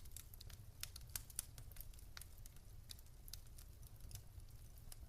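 Wood fire crackling: faint, irregular sharp pops and ticks, a few a second, over a steady low rumble.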